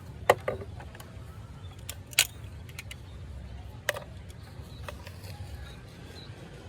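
A few sharp clicks and knocks, like small hard objects being handled, over a steady low rumble; the loudest click comes about two seconds in.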